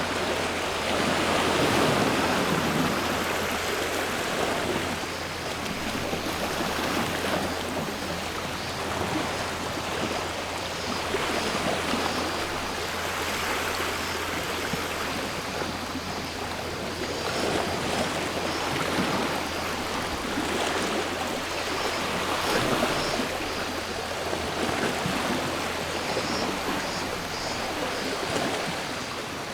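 Sea waves washing in, the surf swelling and ebbing in slow surges about every five seconds. A faint steady drone of cicadas sits above it.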